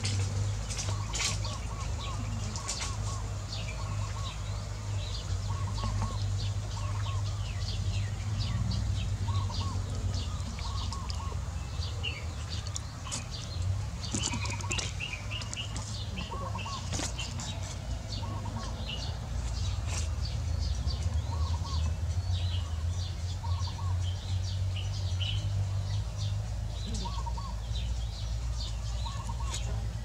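Wild birds chirping with many short high notes throughout. Another bird repeats a short call of two or three quick lower notes every second or two. A steady low hum runs underneath.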